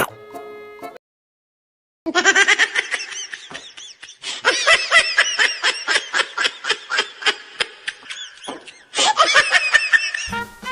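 A person laughing hard: a long run of quick, high-pitched ha-ha sounds lasting about eight seconds, after a short silence. Jazzy music comes in near the end.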